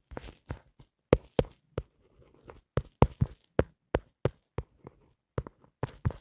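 A string of short, sharp clicks and taps at an uneven pace, about two or three a second.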